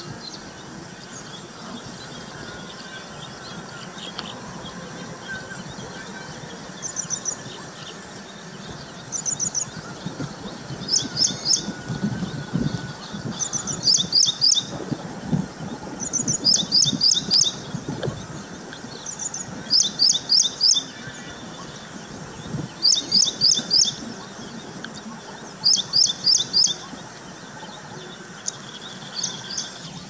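A small bird calling in quick bursts of three to six high chirps, repeated every two to three seconds, over a steady outdoor background hiss.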